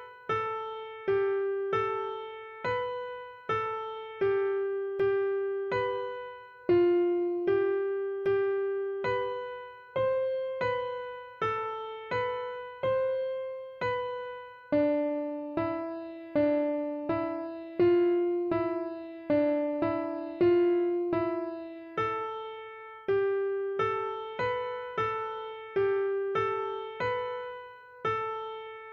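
Background music: a slow electric-piano melody of single notes, each struck and left to fade.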